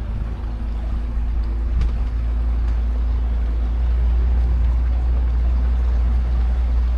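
A motorboat's engine running steadily as a low drone, heard from aboard the boat, growing slightly louder. There is a single light knock about two seconds in.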